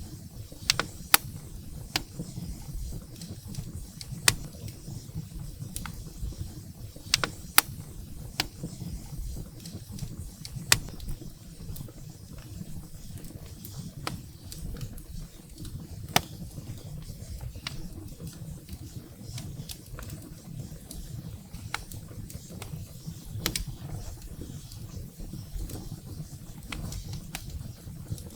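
Wood fire burning in a fireplace: a steady low rumble of the flames with sharp, irregular crackles and pops from the firewood, a few louder snaps in the first dozen seconds.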